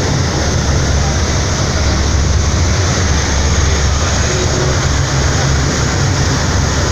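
Steady low drone and rushing noise of the Express Bahari 8B fast ferry underway, its engines running at a constant pitch.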